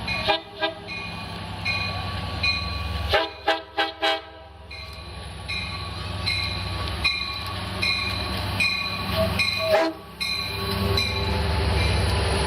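Long Island Rail Road diesel train pulling into the station with its engine running, sounding several short horn blasts a little over three seconds in.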